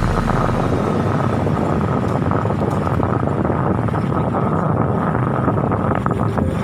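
Steady noise of a vehicle on the move, with wind buffeting the microphone.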